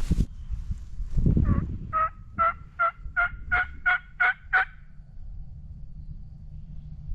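A run of about eight evenly spaced turkey yelps, about three a second, each note with a slight break in pitch, rising a little through the series. A short low rumble comes just before them.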